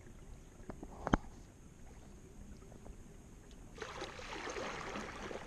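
Kayak being paddled: a single sharp knock about a second in, then the swish and splash of paddle strokes in the water from about four seconds in.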